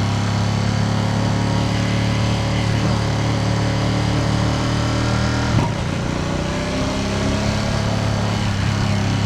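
Ducati Panigale V2S twin-cylinder engine running steadily while riding, with wind and road noise. About five and a half seconds in there is a brief sharp knock, and the engine note changes after it.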